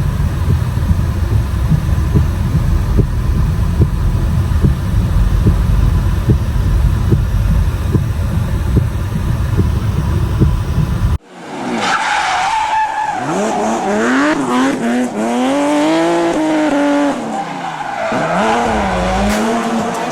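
Ford Ranger Wildtrak pickup driving on a snowy road, heard from inside: a steady low road and engine rumble with frequent small knocks. About eleven seconds in it cuts abruptly to the truck drifting on snow, its engine revving up and down repeatedly as the wheels slide.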